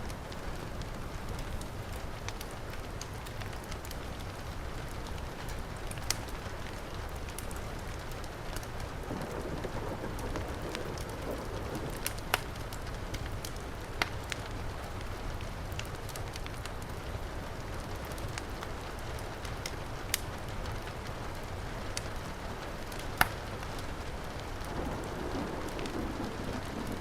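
Steady heavy rain mixed with a wood fire's crackle: an even hiss of rain with a handful of sharp, scattered pops from the burning logs, the loudest near the end.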